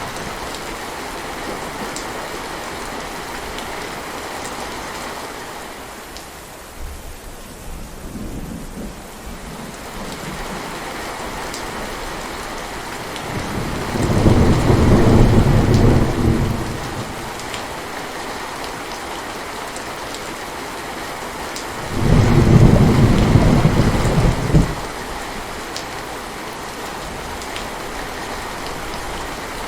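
Steady heavy rain with two rolls of thunder, the first about halfway through and the second a few seconds later, each rumbling for about three seconds.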